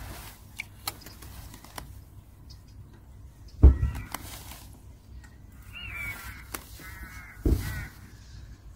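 Bird calls, once about four seconds in and in a short run near the end, the loudest moments coming with low thumps, over scattered sharp ticks of rain on the umbrella.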